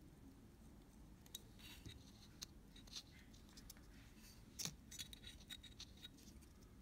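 Faint scratching and light clicks of small hand tools working on a camera's shutter parts. There is one sharper click about four and a half seconds in, followed by a few quick small clicks.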